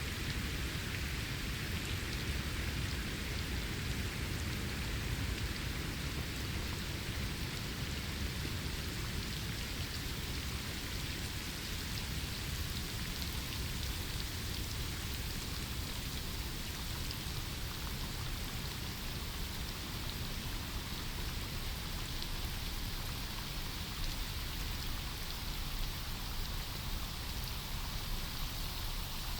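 Steady rain falling on forest foliage, an even patter of raindrops with a low rumble underneath.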